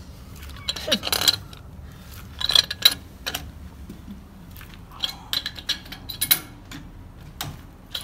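Pipe wrench and brass radiator-valve fittings clinking and knocking as they are handled: a run of sharp, irregular metallic clicks.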